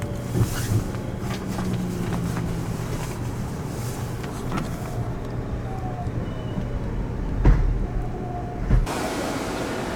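Steady low hum of a stopped electric sleeper train, with the noise of the station around it. A heavy thump comes about seven and a half seconds in, and another a second later.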